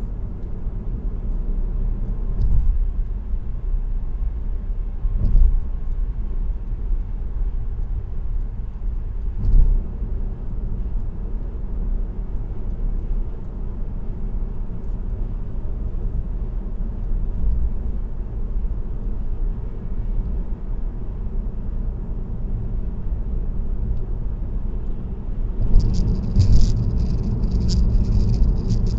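Car driving on an expressway: steady low tyre and road rumble, with a few brief thumps about 2, 5 and 10 seconds in. Near the end a light, high rattling and jingling starts up over the rumble.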